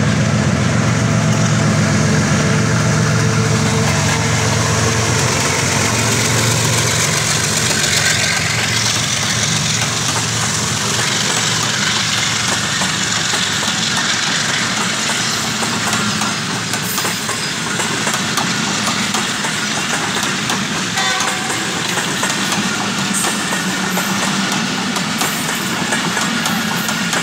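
Diesel locomotive running loud under throttle. Its low engine note is strongest for the first third, then gives way to a broader rushing noise of the running train.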